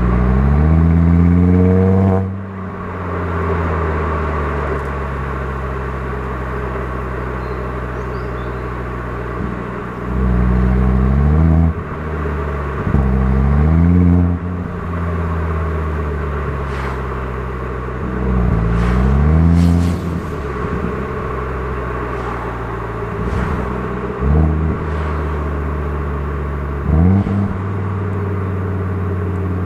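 Audi TT RS Plus's turbocharged five-cylinder engine and exhaust on a drive: a strong pull with rising pitch at the start, cut off abruptly at about two seconds, then steady running broken by three more rising accelerations and two short blips near the end.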